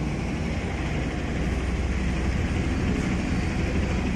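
Helicopter running, a steady low mechanical rumble that grows slightly louder about a second and a half in.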